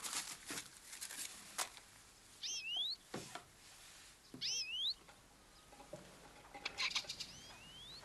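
A bird calling twice, about two seconds apart, each a short call that dips and then rises in pitch. Light clicks and rustles sound around it.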